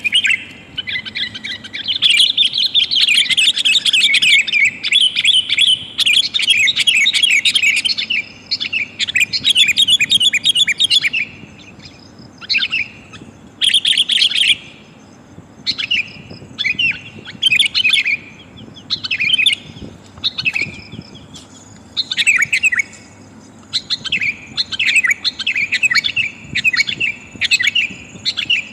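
Sooty-headed bulbul calling, the call of a female summoning a male. Dense runs of quick chattering notes for about the first eleven seconds, then shorter separate calls with gaps between.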